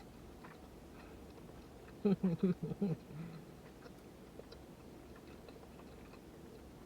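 A person chewing a bite of croissant sandwich with faint wet mouth clicks. About two seconds in comes a short run of closed-mouth humming "mmm"s of enjoyment.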